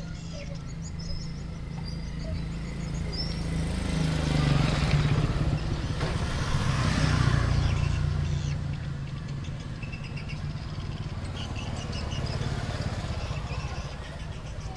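A motor vehicle passing: a steady low hum with a swell of noise that builds about four seconds in and fades away by about nine seconds. Faint bird chirps sound over it.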